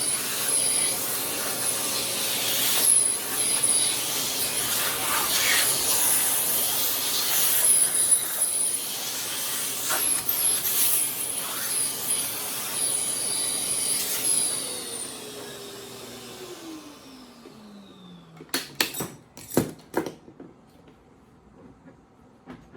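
Shop vacuum running steadily, sucking wood chips out of a freshly routed groove. Its motor winds down with a falling whine about fifteen seconds in, followed by a few sharp clicks and knocks.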